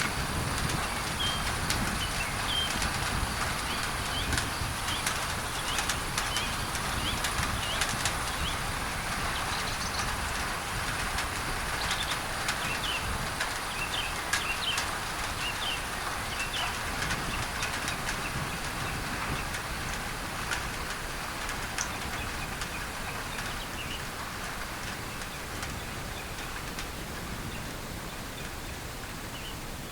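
Rain pattering on a tin roof, mixed with a steady layer of pink noise. Birds chirp in short, repeated high calls over it, mostly in the first half, and the whole sound eases slightly toward the end.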